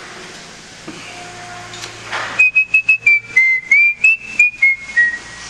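A person whistling a short tune: about a dozen clear notes that step up and down in pitch, starting a little over two seconds in.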